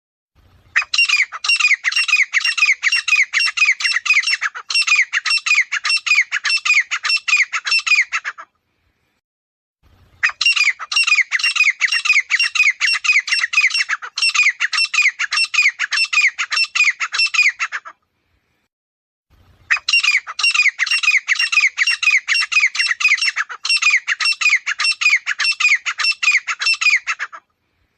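Grey francolin calling: three bouts of rapid repeated notes, each lasting about seven seconds, with short silent pauses between them.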